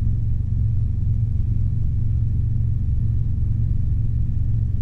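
Robinson R22 helicopter in a climb: a steady low drone of engine and rotor from inside the cabin.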